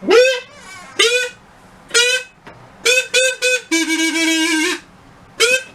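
A series of reedy, goose-like honks, each scooping up in pitch. They come about once a second, with a quick run of three in the middle, then one longer, lower held honk and a final short honk near the end.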